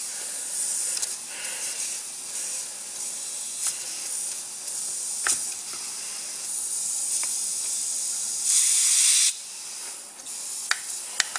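Compressed air hissing from the air hose feeding a Lego pneumatic V-twin engine, with a few sharp clicks. The hiss swells to a louder burst about eight and a half seconds in.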